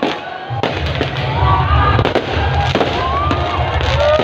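Fireworks going off: sharp bangs and crackles one after another, mixed with several long held tones that bend in pitch at their ends, over a steady low rumble that begins about half a second in.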